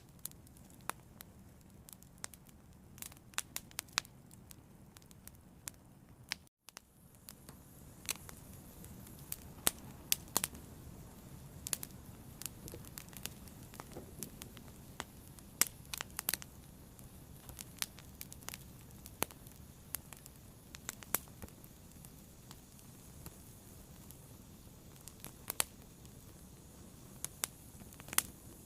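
Wood fire crackling: irregular sharp pops and snaps over a soft, steady hiss, with a brief dropout about six and a half seconds in.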